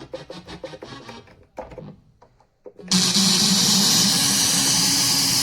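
Roland XPS-10 keyboard being played: a few short scattered notes, then about three seconds in a loud, harsh, steady blast of noise from its speaker. This is the keyboard's fault, a sound that blasts and crashes after a bank change.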